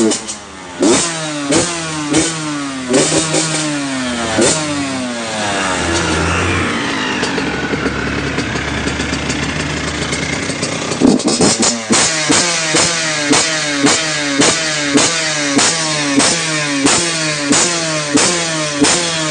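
Yamaha YZ85 two-stroke motocross engine being revved in quick repeated throttle blips, each rev rising and falling. From about 5 to 11 seconds in it is held at high revs, then the quick blips start again.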